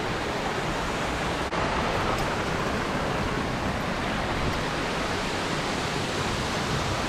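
Steady rushing of water in a mountain stream, with a momentary break about a second and a half in.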